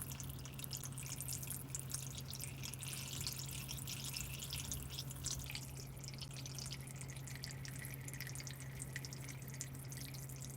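Water dripping and trickling: many small, irregular droplet ticks over a faint, steady low hum.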